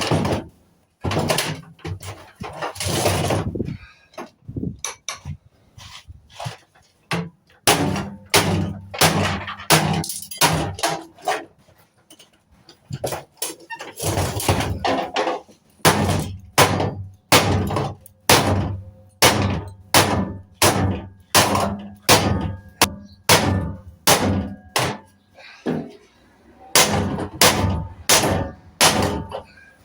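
Repeated irregular knocks and clanks of hand tools on a microwave's sheet-metal casing as it is pried and dismantled, with brief pauses and a low hum under some stretches.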